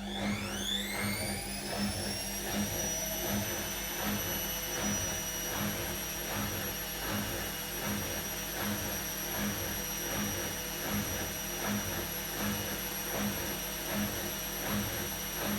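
Atlant washing machine running: a motor whine climbs in pitch over the first two seconds, then holds steady and high. A low pulse repeats about every three-quarters of a second.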